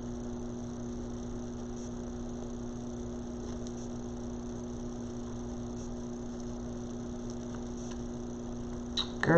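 Steady low electrical hum, unchanging, with no other sound until a voice starts right at the end.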